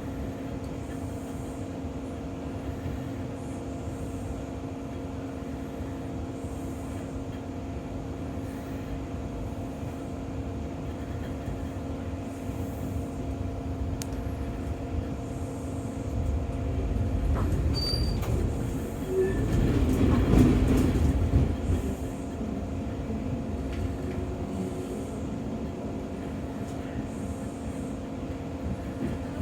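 Brisbane suburban electric train heard from inside the carriage: a steady hum of several tones over the low rumble of wheels on the track. The rumble swells for a few seconds a little past halfway, with a couple of brief wheel squeals.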